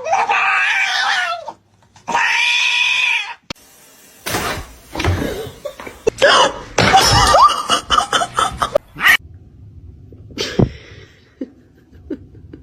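Cat giving two long drawn-out meows in the first few seconds, followed by a stretch of shorter, mixed sounds and a few clicks.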